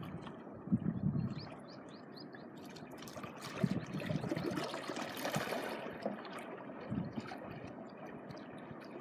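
Small sea waves washing and trickling over the shore, with one larger wash swelling and ebbing away around the middle.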